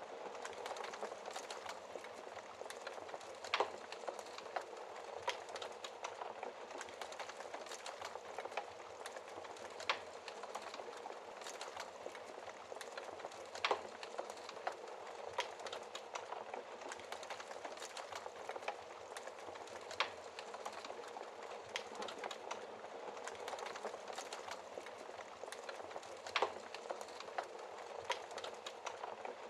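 Wood fire burning in a fireplace: a steady hiss with constant small crackles and a few louder pops several seconds apart.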